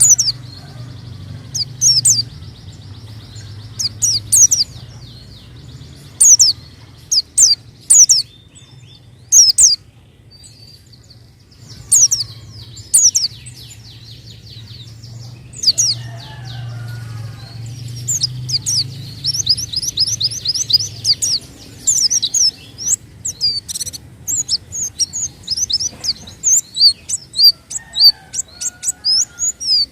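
A pleci (white-eye) singing in bursts of sharp, high chirps and whistles that turn into quicker, denser runs of notes about two-thirds of the way in. A low hum sits under the first two-thirds.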